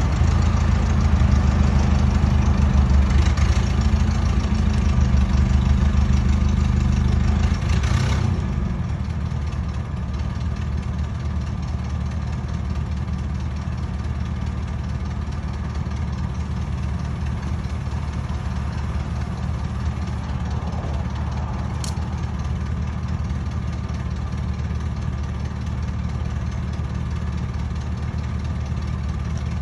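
An engine running steadily, throttling down about eight seconds in and then idling.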